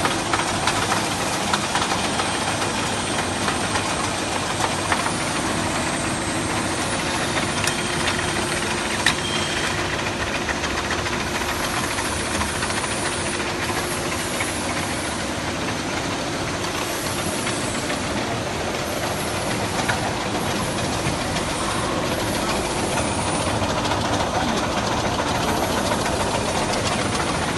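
Double horizontal bandsaw running steadily, its motors and band blades making a continuous dense mechanical noise with a low hum and a few small clicks.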